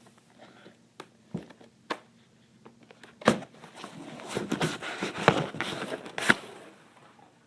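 Taped cardboard case being torn open by hand: a few sharp clicks and knocks, then about three seconds of ripping and scraping of tape and cardboard with sharp snaps in it.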